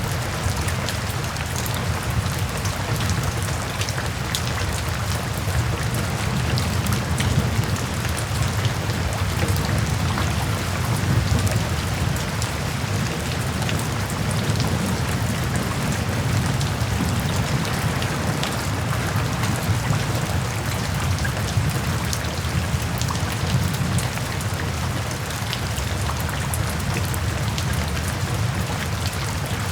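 Steady rain falling, with a dense patter of individual drops over a low, constant rumble.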